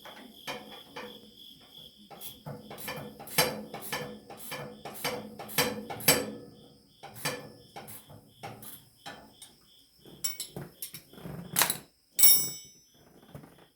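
Hand tools knocking and clinking against metal parts of a Ford 2N tractor, irregular strikes a couple of times a second, with a sharp clang that rings on briefly near the end. Crickets chirp steadily underneath.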